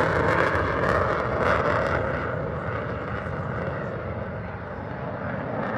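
Jet noise of an F/A-18 Super Hornet fighter passing by, fading steadily as it flies away, the higher hiss dropping off about two seconds in.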